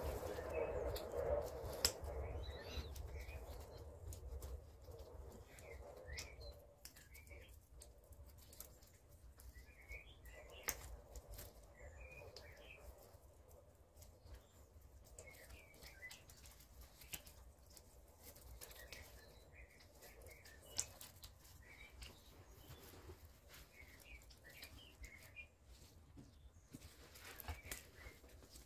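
Small birds chirping faintly in short clusters of high chirps every few seconds, with a few sharp clicks, the loudest about two, eleven and twenty-one seconds in.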